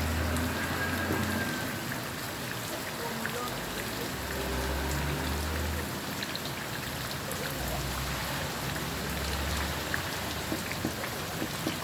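Steady rain falling and pattering on surfaces, with the low rumble of passing traffic swelling and fading three times.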